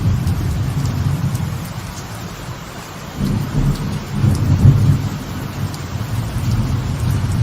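Light rain falling on a veranda, with scattered drops ticking, under a continuous low rumble of rolling thunder. The thunder eases around two seconds in, then swells again from about three seconds in and is loudest a little before the five-second mark.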